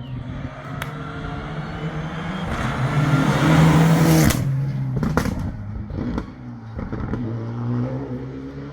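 A rally car's engine running hard, growing louder to a peak about four seconds in as the car goes by, then cutting off sharply. Several sharp cracks follow over the next few seconds while the engine note drops away.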